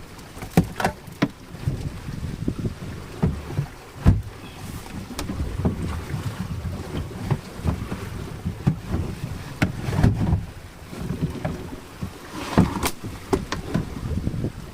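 Wind buffeting the microphone on a small boat at sea, with waves and many irregular knocks and thuds on the boat.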